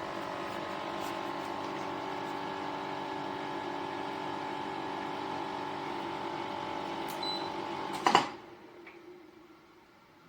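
Pro Breeze 20-litre dehumidifier running with a steady hum. About eight seconds in there is a loud clunk, and the sound then dies away to a much quieter level.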